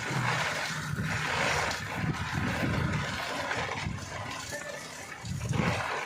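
Rain pouring down in a steady hiss, with low rumbling surges that come and go, strongest near the start and near the end.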